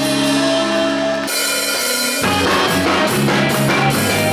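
Live band playing the instrumental close of a song after the last sung line: a held chord, then a cymbal crash about a second and a half in and the drum kit and guitar coming in with a steady beat.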